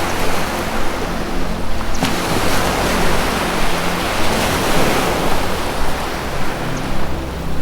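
Ocean waves washing in a continuous surf that swells and eases, with soft low sustained music tones underneath.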